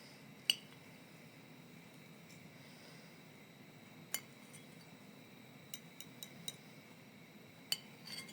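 Dishes and utensils clinking in a series of sharp, ringing clinks: one about half a second in, another about four seconds in, a quick run of four a little later, and two more near the end, over a faint steady background hum.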